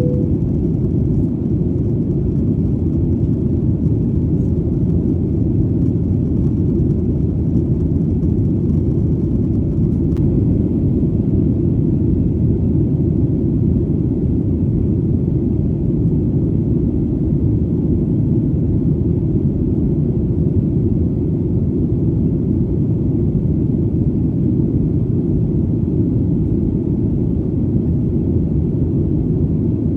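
Airplane in flight: a steady, deep rumble of engine and air noise, even and unchanging, with almost nothing in the higher pitches.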